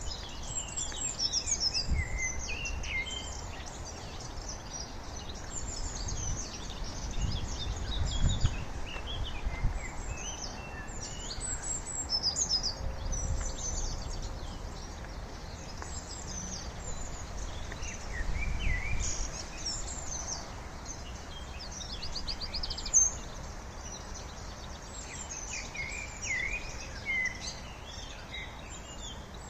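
Several songbirds singing and calling together: many short chirps and whistled phrases, with a brief rattling trill about halfway through. Low rumbles come and go under the birdsong, and a sharp tap sounds a little past the two-thirds mark.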